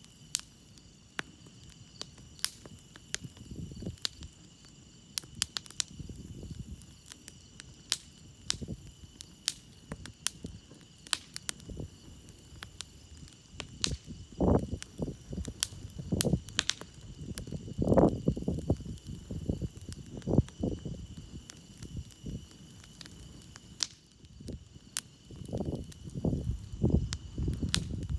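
Wood campfire crackling with irregular sharp pops, over a steady high trill of crickets. Clusters of low rushing puffs from the fire come and go around the middle and near the end.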